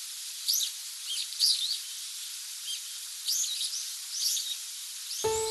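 Small birds chirping in short, scattered calls over a steady hiss. Piano music comes in near the end.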